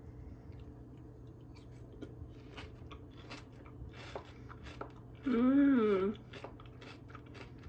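Chewing a crunchy mouthful of strawberry coated in Nutella and pistachio kataifi: a run of small crunches and crackles, with one long hummed 'mmm' about five and a half seconds in.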